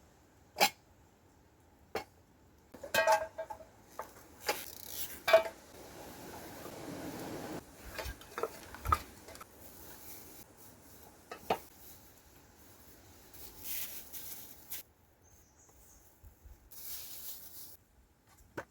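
Scattered clinks and knocks of metal cookware and utensils being handled, a couple of them ringing briefly.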